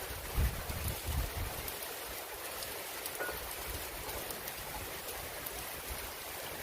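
Heavy rain falling steadily, with some uneven low rumbling in the first second and a half.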